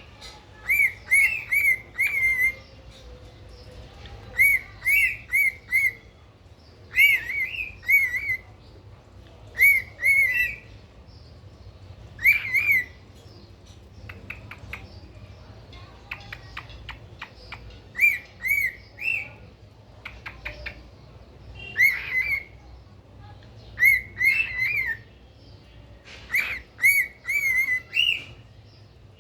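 Pet cockatiel chirping: short, clear whistled chirps in quick clusters of two to four, repeated every couple of seconds.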